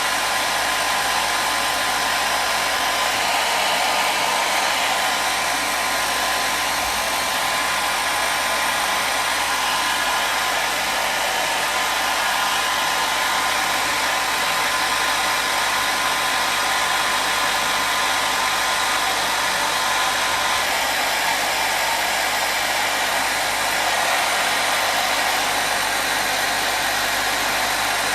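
Hair dryer running continuously, a steady, even rush of blown air with a faint motor whine, used as white noise for sleep.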